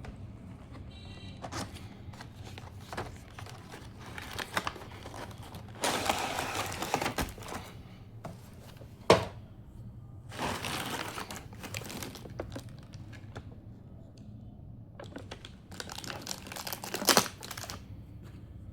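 Toy packaging being handled and opened: irregular bursts of crinkling and tearing, with a sharp snap about nine seconds in and another near the end.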